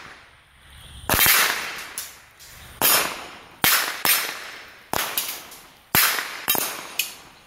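.22 rimfire gunshots: about seven sharp cracks at an uneven pace, each trailing off over about half a second.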